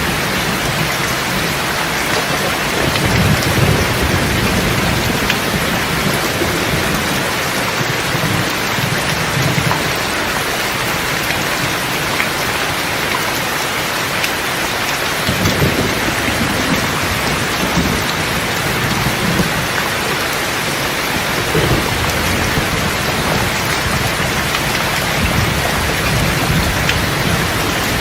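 Steady rain falling, with low rolls of thunder that rise and fade several times: a few seconds in, about halfway, and again near the end.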